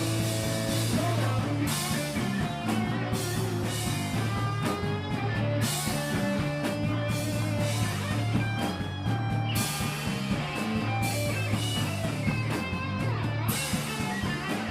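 Live rock band playing an instrumental passage: electric guitar lines over bass and drums, with cymbals crashing every second or few.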